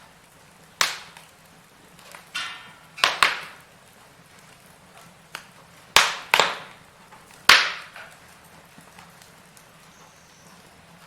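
Firewood burning in a fireplace, giving about eight sharp pops and crackles at irregular moments over a faint steady background; the loudest come about six and seven and a half seconds in.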